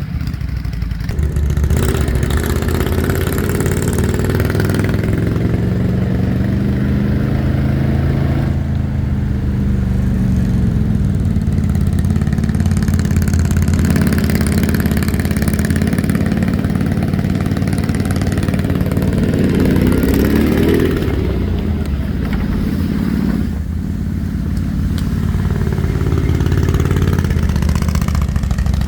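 ATV engine running and being revved, its pitch rising and falling as the throttle is opened and eased off, with a short dip in level a few seconds before the end.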